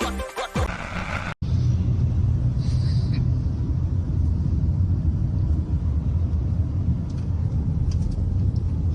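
Music for about the first second, then after an abrupt cut a steady low rumble with a faint hiss above it.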